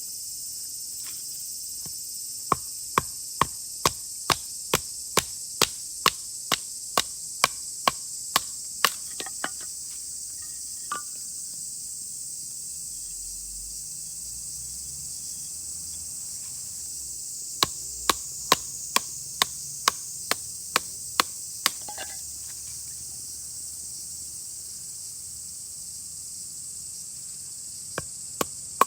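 Runs of sharp chopping strikes, about two a second, in three bursts, over a steady high drone of insects.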